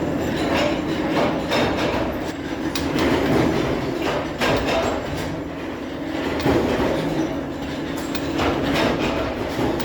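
Metalworking factory machinery running with a steady hum, broken by irregular sharp metal clanks and knocks.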